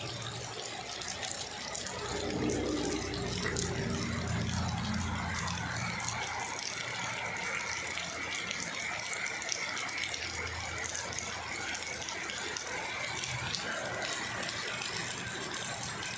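Heavy rain pouring down, a steady hiss thick with the patter of drops. A low rumble rises under it about two seconds in and eases off after a few seconds.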